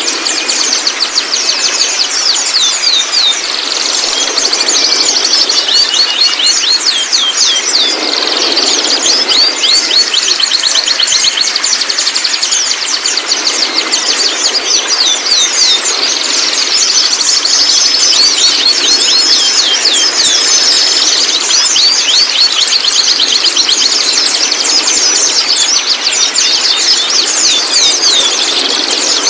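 Juvenile white-rumped shamas chattering: a dense, unbroken stream of rapid, high, downward-sweeping chirps, with three short level whistles a little past halfway.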